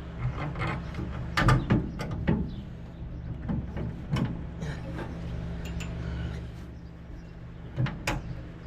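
A string of sharp metal knocks and clanks as a part is pinned in place during an LS V8 engine test-fit, loudest in a quick cluster a second or two in, with another near the end, over a steady low hum.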